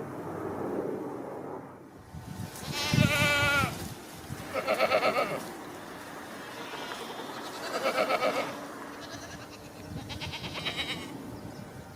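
Goats or sheep bleating: four wavering calls a few seconds apart, the first the loudest.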